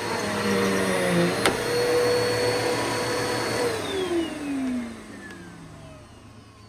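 Bissell Powerforce Bagless upright vacuum running steadily, with a sharp click about a second and a half in. It is then switched off, and its motor whine falls in pitch as it spins down.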